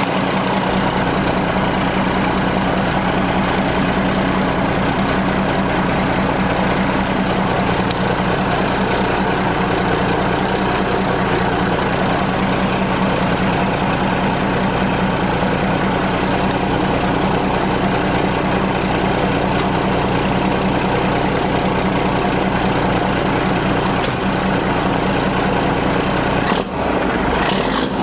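Caterpillar 3406B inline-six diesel engine in a parts truck running steadily, just brought back to life after sitting unstarted for a long time. The running note changes briefly near the end.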